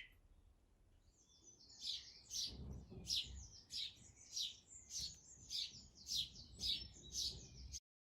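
A small garden bird chirping repeatedly, about ten short, high chirps at a bit under two a second, over a faint low rumble. The sound cuts off suddenly near the end.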